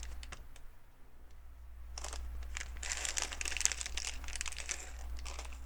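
LEGO pieces being handled: plastic crinkling and rustling with small clicks, thin at first and then in dense bursts from about two seconds in.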